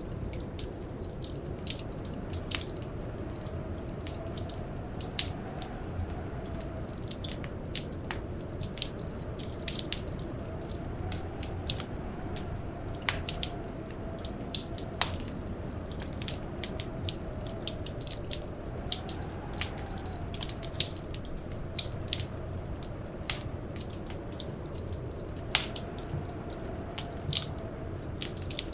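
Wood fire crackling, with irregular sharp pops and snaps of varying loudness, several a second at times. Underneath runs a steady low rumble and a faint wavering whistle.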